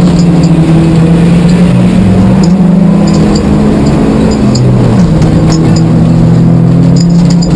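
Rally car engine heard from inside the cabin, running hard at high revs at stage speed. Its pitch falls and rises again about two seconds in and once more near five seconds in, as the driver lifts or changes gear.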